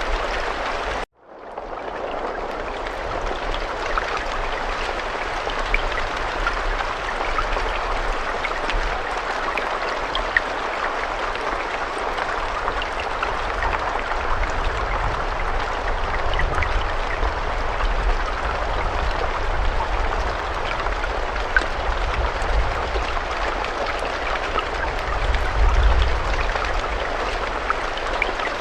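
Steady rain with scattered individual drops. About a second in it cuts out abruptly and fades back in over about a second, like a loop seam in the recording.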